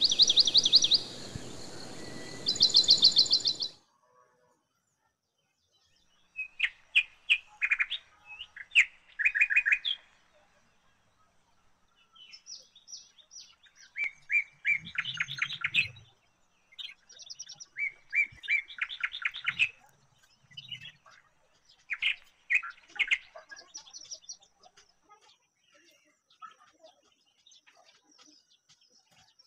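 Small birds chirping in quick trilled runs of notes, in repeated bursts with short gaps between them. The first few seconds are louder, with the trills over a rushing noise, and the sound cuts out completely for about two seconds before the chirping resumes.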